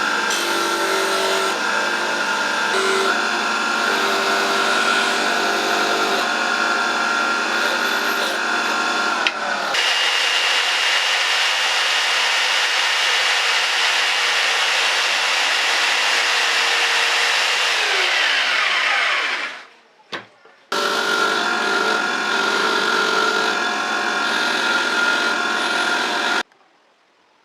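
An electric power tool abrading rusty metal parts, loud and steady. Partway through, a higher-pitched run is switched off and winds down with falling pitch. The tool starts again and cuts off abruptly near the end.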